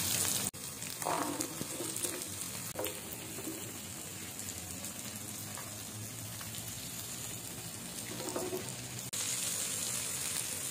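Garlic cloves, onion and curry leaves frying in hot coconut oil in a pan: a steady sizzle. It drops off about half a second in and comes back louder near the end.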